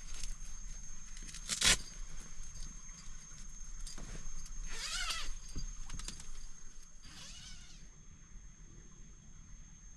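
Handling noises: a sharp knock, then two short scraping, clinking sounds, like metal gear being moved about.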